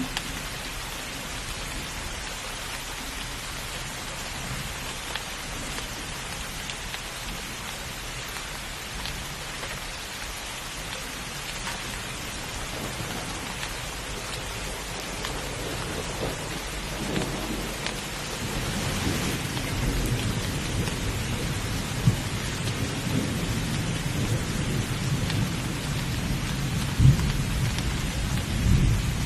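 Steady rain falling hard in a thunderstorm. Thunder rumbles in from about halfway through, growing louder, with two sharper claps near the end.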